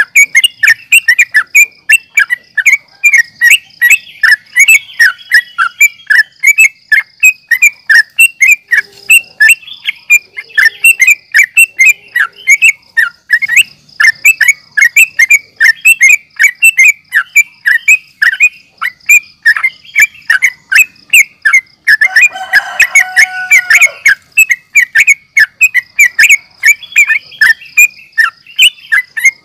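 Yellow-vented bulbul (trucukan) singing a rapid, unbroken run of short chirping notes, several a second, the fast 'ropel' song used as a lure to provoke other bulbuls into answering. A lower, fuller call cuts in for about two seconds around 22 seconds in.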